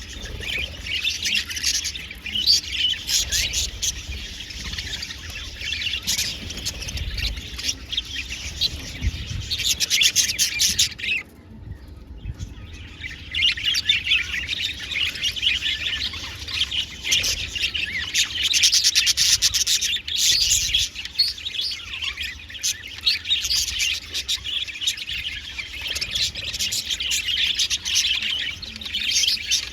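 Many budgerigars chattering and warbling together, a dense unbroken stream of chirps, with a brief lull about eleven seconds in.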